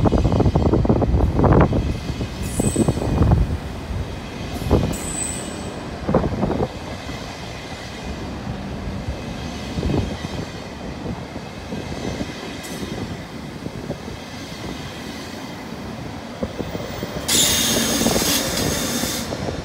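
ÖBB Railjet push-pull train rolling past with a low rumble and wheels knocking over rail joints, with a couple of brief wheel squeals. Near the end its Siemens Taurus electric locomotive passes with a loud hiss.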